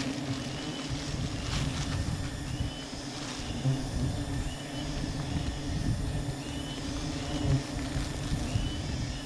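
Steady low buzzing drone of a giant honey bee (Apis dorsata) colony. Short high chirps from a bird repeat every second or two over it.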